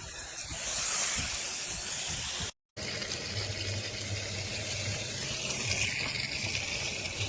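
A steady rushing hiss, broken by a short silent gap about two and a half seconds in; after the gap a low hum runs under the hiss.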